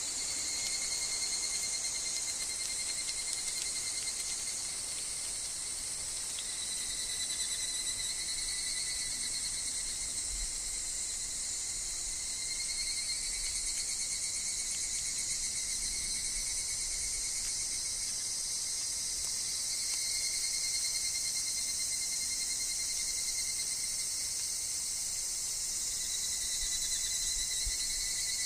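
Chorus of higurashi (evening cicadas) calling in overlapping calls that each run several seconds, over a dense, steady high insect hiss.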